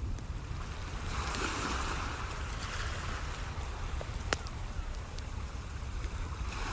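Ocean waves washing in over a steady low rumble, one swell building about a second in and another near the end, with the sharp crackles and pops of a wood campfire; the loudest pop comes about four seconds in.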